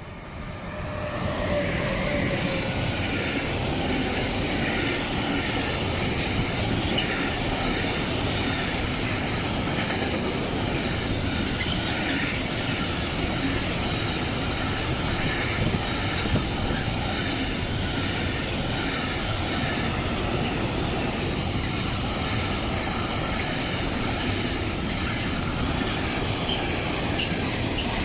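A train hauled by a DB Class 193 (Siemens Vectron) electric locomotive passing through, with the steady rolling noise of wheels on rails. The noise builds over the first couple of seconds, holds evenly for the long pass, and falls away near the end.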